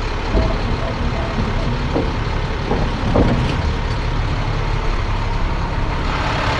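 Heavy tow truck's engine running steadily. It carries a run of short, evenly spaced beeps in the first second or so, and a few sharp metal clanks a couple of seconds in.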